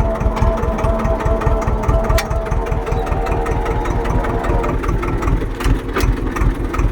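Farm tractor engine running steadily with a low, rapid chugging; a higher whine fades out about two-thirds of the way through, and two sharp clicks stand out.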